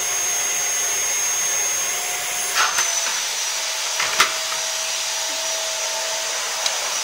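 Vacuum cleaner running steadily with a high whine. About two and a half seconds in, its pitch dips slightly with a brief rustle, and there is a sharp knock about four seconds in.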